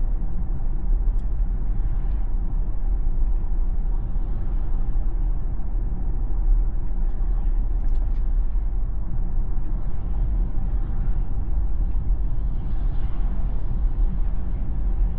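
Steady low road and tyre rumble of a Tesla electric car driving, with no engine note, as heard from inside the moving car.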